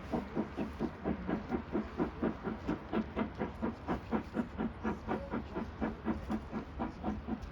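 Steam train running past, with an even, rapid beat of about four to five pulses a second.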